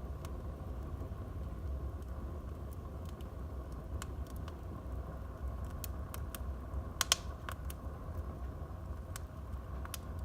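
Wood fire burning in a fireplace: a steady low rumble of flames with scattered sharp crackles and pops from the burning logs, the loudest a quick double pop about seven seconds in.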